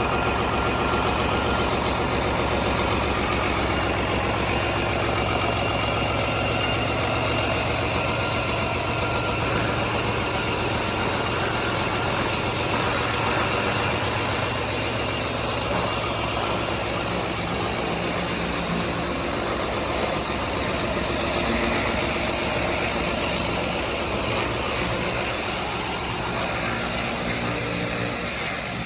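A freshly overhauled engine running steadily under test, an even unbroken sound at a constant speed.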